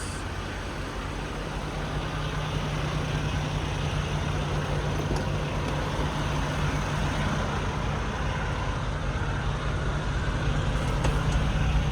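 Semi truck's diesel engine running steadily as it drives off, with a steady low hum over road noise that slowly grows a little louder.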